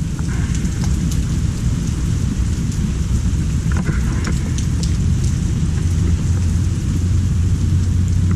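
Heavy rain falling steadily, with scattered drop ticks and a deep, continuous low rumble underneath.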